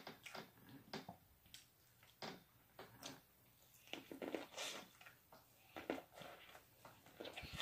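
Sweet corn on the cob being bitten and chewed: a string of faint, short crunches and wet mouth clicks as kernels come off the cob.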